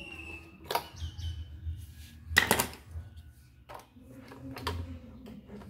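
Scattered clicks and knocks of parts and tools being handled while a small appliance is taken apart, with the loudest pair of knocks about halfway through.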